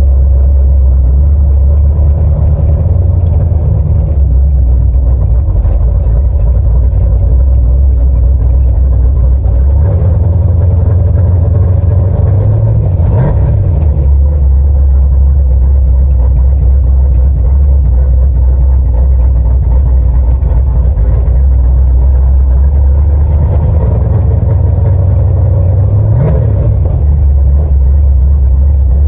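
Small-block Ford V8 of a 1982 Mustang GT idling with a loud, steady low rumble after a cold start. The throttle is blipped briefly twice, a short rising rev about 13 seconds in and another about 26 seconds in.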